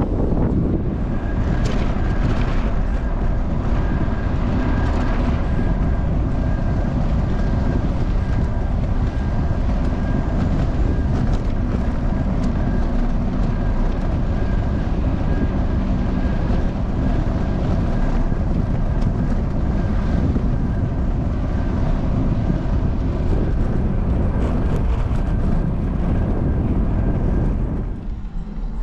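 Wind rushing over the microphone of a camera riding along on a moving bicycle: a steady, loud rush of noise, with a faint steady high tone running through it.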